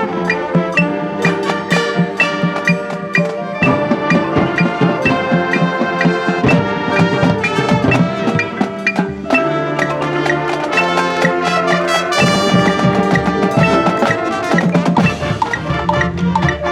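Marching band playing its field show: brass with drums and percussion.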